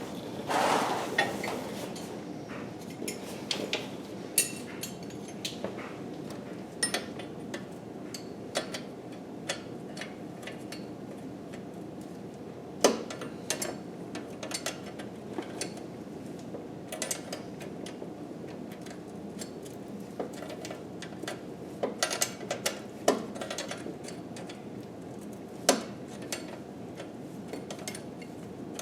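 Hand tools working on engine bolts: scattered metallic clinks, taps and knocks at an irregular pace, with a louder knock about halfway through.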